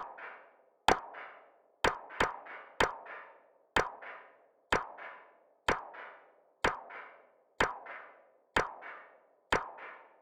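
An electronic percussion sample, a sharp click-like hit with a short noisy decaying tail, looping about once a second with an occasional extra hit squeezed in.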